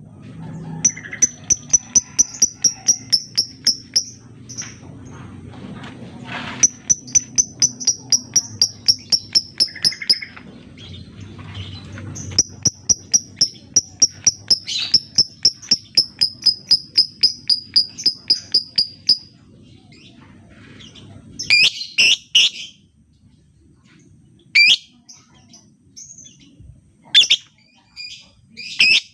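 Lovebird singing long runs of rapid, evenly repeated high chirps, about six a second, three runs in a row. In the last third it switches to a few louder, harsher single calls.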